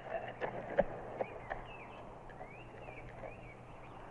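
Faint bird chirps, short arching calls repeated a few times, after a few soft knocks in the first second and a half.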